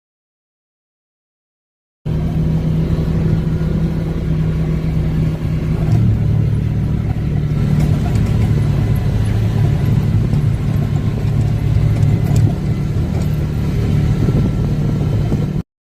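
Off-road vehicle engine running steadily while driving a trail, its pitch dropping a little about six seconds in. The sound starts abruptly two seconds in after dead silence and cuts off just as abruptly near the end.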